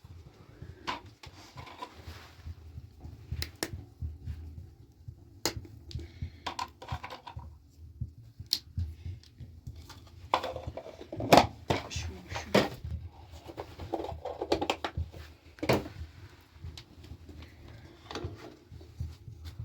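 Irregular sharp knocks and clicks, as of objects being handled, in a small echoing room over a low rumble. The loudest knocks come about halfway through.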